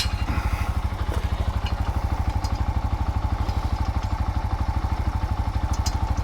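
Keeway RKF 125's single-cylinder four-stroke engine idling steadily with an even, rapid exhaust beat while it warms up, with a few faint light clicks over it.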